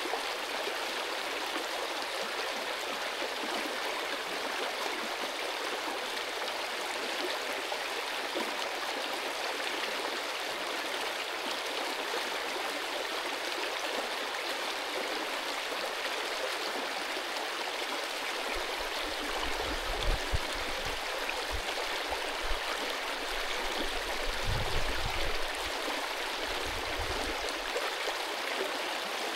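Mountain stream rushing steadily. In the second half a few low rumbles come and go, the strongest about two thirds of the way in.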